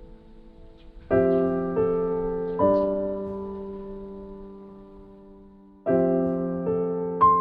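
Background piano music: a few notes struck together about a second in, two more shortly after, left to ring and fade, then a new group of notes near the end.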